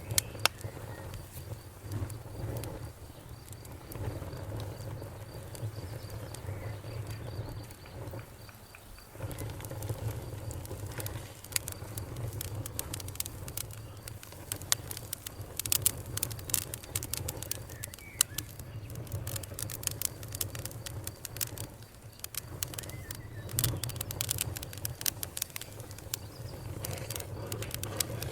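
Wood fire burning, with a steady low rumble and frequent sharp crackles and pops that come thicker from about ten seconds in.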